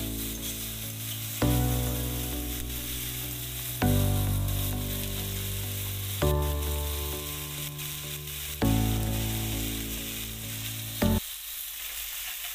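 Chopped onions, tomatoes and green chillies sizzling in hot oil in a karahi, with some stirring. Over the frying, background music plays sustained chords that change about every two and a half seconds and stop about eleven seconds in.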